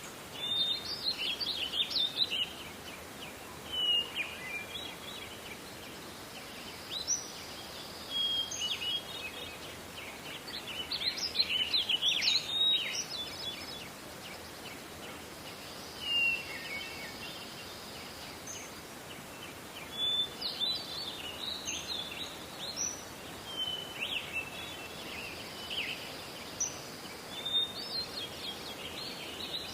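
Several songbirds singing in a forest, with phrases of chirps and trills coming every few seconds over a steady background hiss.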